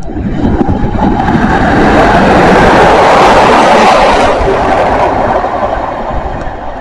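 A train passing close by, its noise building to a peak around two to four seconds in and then slowly fading.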